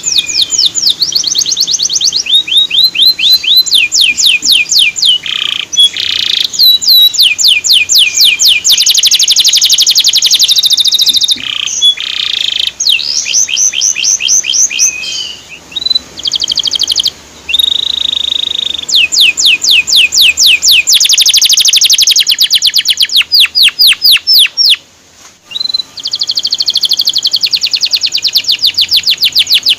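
Male canary singing: long, loud trills of rapidly repeated high chirps, several notes a second, broken by a couple of brief pauses.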